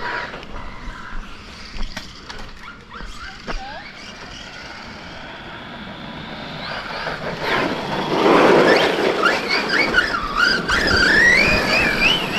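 Electric RC monster truck setting off: the brushless motor's whine rises and falls with the throttle, over a rush of tyre noise. The first part is quieter with a few light clicks, and the truck gets loud about seven or eight seconds in.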